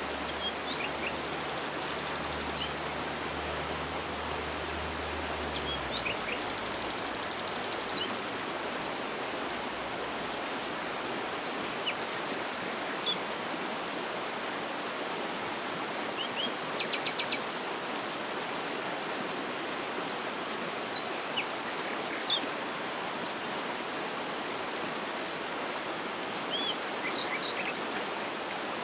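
Waterfall's steady rush of falling water, with scattered short bird chirps and a few rapid high trills over it. A faint low hum underneath stops about six seconds in.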